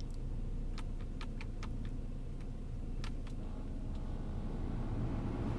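Saab B235R 2.3-litre turbocharged four-cylinder idling steadily while warming up from a cold start, heard from inside the cabin. Light clicks sound over it, a quick run of them about a second in and two more around three seconds.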